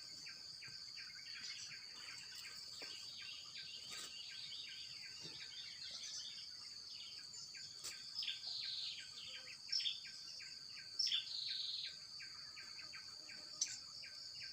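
Steady high drone of insects with rapid repeated chirps, about four a second. A few louder bird chirps come in past the middle.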